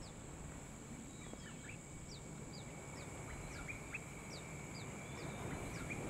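Faint chirps from small wild birds: scattered short, high, falling notes, about two or three a second, over a steady faint high tone.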